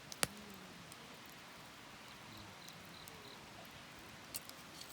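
Wood fire burning, with one sharp pop shortly after the start and faint scattered crackles and ticks.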